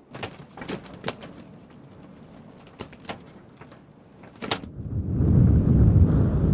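Several sharp clicks and knocks in quick succession, then from about five seconds in, loud wind buffeting the microphone in a low rumble.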